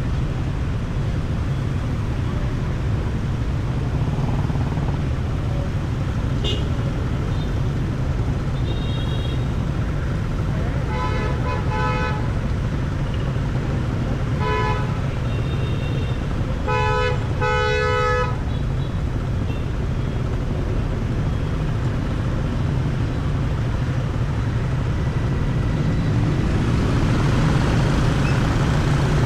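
Steady low rumble of riding a motorbike through city traffic, with several short vehicle horn beeps, some in pairs, around the middle.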